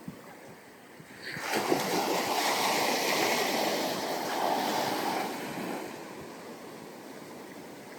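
Ocean wave breaking on the beach and washing up the sand. The rush rises about a second in, holds for about four seconds, then fades as the water draws back.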